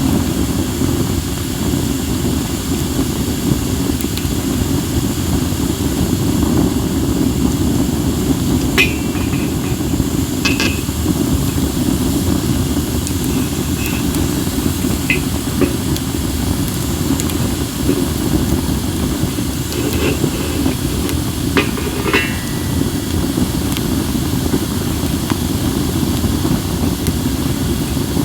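Wood fire of acacia and other firewood burning, with a few sharp crackles and pops, two small clusters of them about a third and three quarters of the way in, over a steady low rumble of wind on the microphone.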